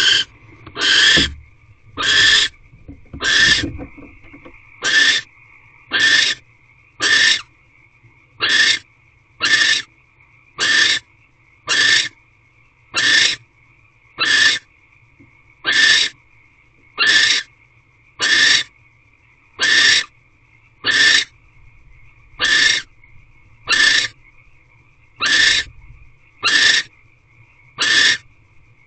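Female barn owl giving a long series of harsh, hissing calls, each about half a second long, repeated steadily about once a second. The uploader takes these calls as a possible sign of mating.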